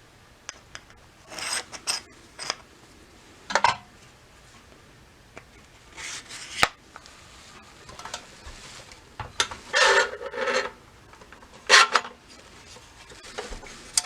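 Short, separate bouts of scraping and rubbing with a few sharp clicks, from hand work on small metal parts.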